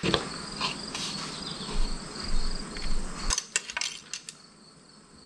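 Crickets chirping steadily in the background, under a few seconds of rustling handling noise and a cluster of sharp clicks a little past the middle, as oil-change gear is handled.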